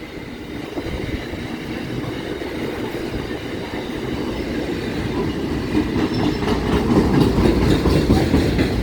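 Freight train passing, its wagon wheels rumbling and clacking on the rails, growing louder towards the end.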